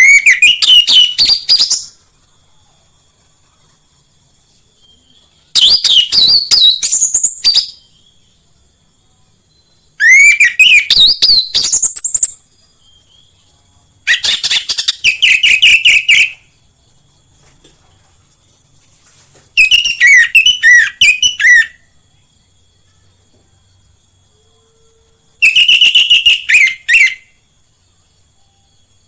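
Orange-headed thrush (anis merah) singing: six phrases of quick, varied whistled notes that rise and fall, each about two seconds long, with pauses of a few seconds between them. A faint steady high hiss runs behind the song.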